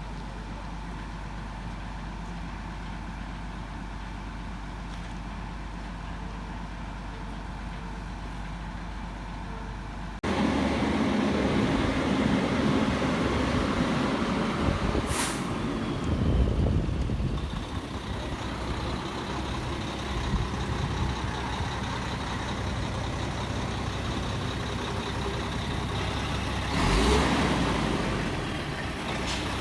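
A heavy vehicle's engine idling steadily, then suddenly louder and rougher about ten seconds in. A short hiss of air comes about fifteen seconds in and a louder burst near the end.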